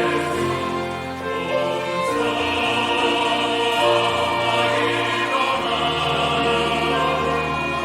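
Church choir singing an anthem in parts, with sustained notes over piano and pipe-organ accompaniment that holds steady low bass notes.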